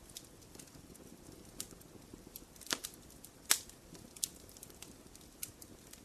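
Wood fire burning in a fireplace: a low steady hiss with scattered crackles and sharp pops, the loudest two about two and a half and three and a half seconds in.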